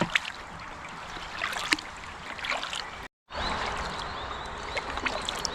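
Kayak paddle strokes: water trickling and dripping off the paddle blades, with a few small splashes. The sound cuts out briefly about three seconds in.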